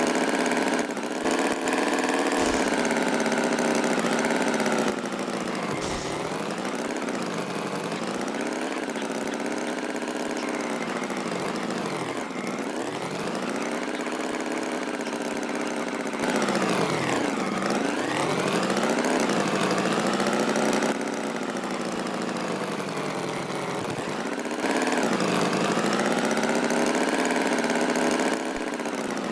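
Tractor engine running, its pitch repeatedly sweeping down and back up as if revving and easing off, with the loudness jumping up and down between stretches every few seconds.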